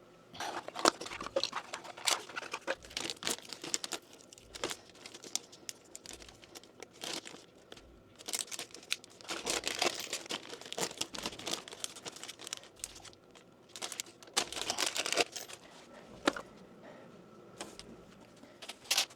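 Crinkling and rustling as plumbing parts and materials are handled, with irregular small clicks and knocks throughout.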